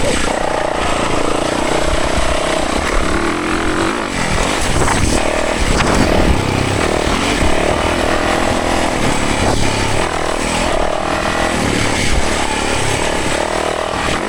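Yamaha 450 four-stroke single-cylinder dirt bike engine running hard on a trail ride, its pitch rising and falling as the throttle opens and closes.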